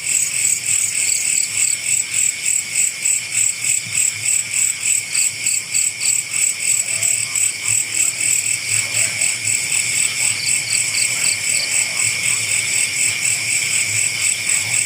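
Insects calling in a loud, steady chorus, pulsing about four times a second. A second, higher call of a few quick pulses comes in three times.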